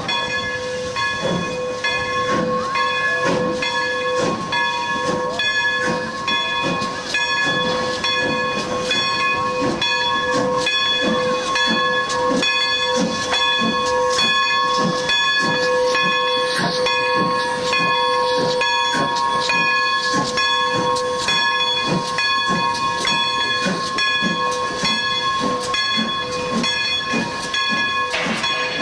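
Steam locomotive working: rhythmic chuffing about two strokes a second over steady steam hiss, with several steady high tones held throughout.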